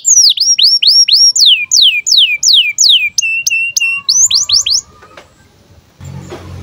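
Male canary singing a rapid trill of downward-sweeping whistled notes, about four a second. It switches to a few short level notes and then rising notes, and stops for a moment near the end.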